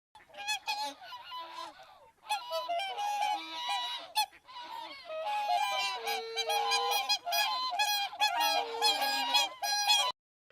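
Geese honking, many calls in quick succession and overlapping, as from several birds. The honking stops suddenly shortly before the end.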